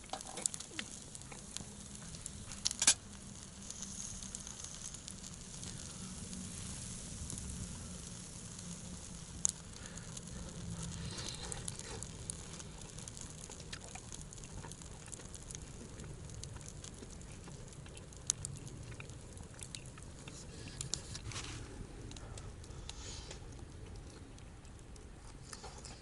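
Wood campfire burning, a steady low hiss with scattered sharp crackling pops.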